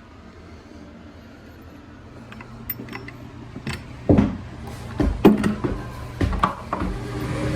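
A series of irregular knocks and clanks, louder from about four seconds in, over a steady low hum.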